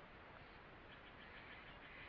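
Faint forest ambience with a distant bird giving a quick run of short ticking notes about a second in, followed by a softer trailing call.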